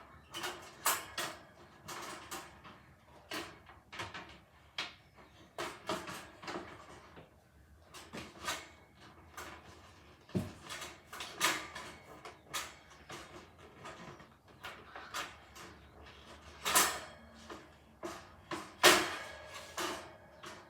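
Irregular knocks, clicks and rustles of small objects being handled and set down, with a dull thud about halfway and two louder knocks near the end.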